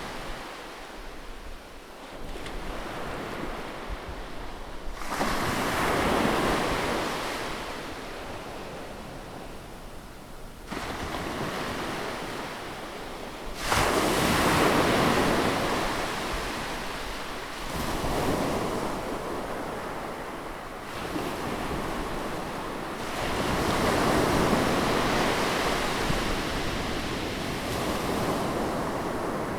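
Ocean waves breaking on a beach. The surf noise swells and falls away every few seconds, and the loudest wave crashes in suddenly about fourteen seconds in.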